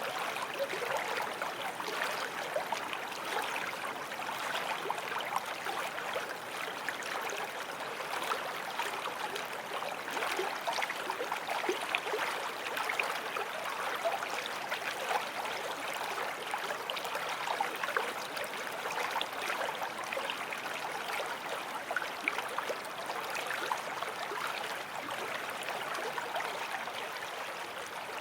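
Forest stream flowing steadily over stones, a continuous splashing and babbling of water.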